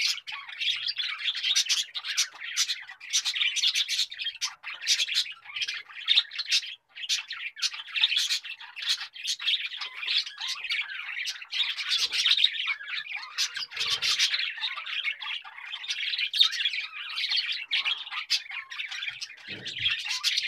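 Many birds chirping continuously, quick calls overlapping densely with no break.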